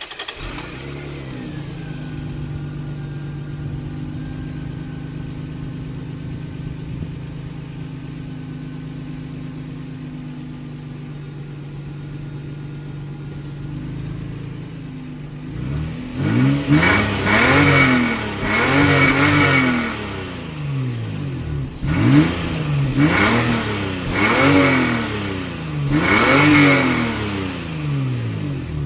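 A 1997 Lexus GS300's 2JZ-GE straight-six, its stock exhaust with the secondary mufflers still fitted, idling just after start-up; the idle settles lower over the first couple of seconds. From about halfway on it is revved in several quick blips, each rising and falling back.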